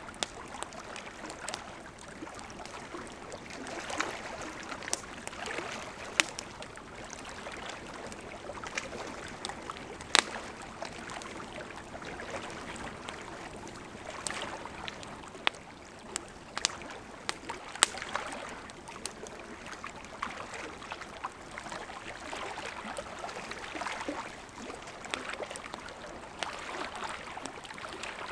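Wood fire burning with a steady soft hiss and irregular sharp crackles and pops, a few of them louder, about ten seconds in and near eighteen seconds.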